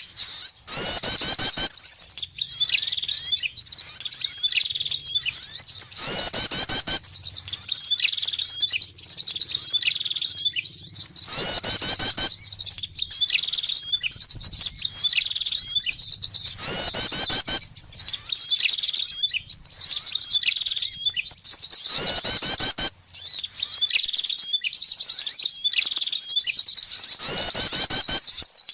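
Bird-lure recording of small songbirds chirping and twittering rapidly and without pause, with a repeated lower note and a downward-sweeping call about every five seconds.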